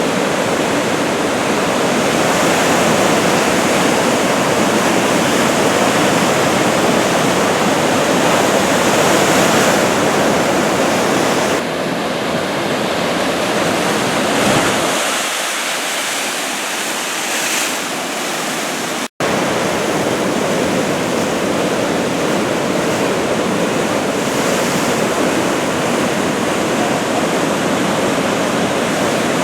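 Ocean surf: the steady rushing roar of large waves breaking on the shore. The sound cuts out for an instant about two-thirds of the way through.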